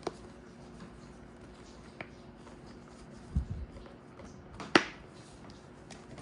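Hands working a motorcycle helmet's padding: faint rustling and light clicks, a dull bump about three and a half seconds in and a single sharp click just under five seconds in.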